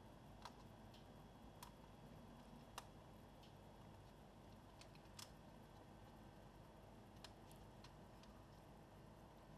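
Faint, irregular small clicks and ticks over a steady low hiss: laptop parts being handled and fitted during reassembly, with about a dozen light taps scattered through it.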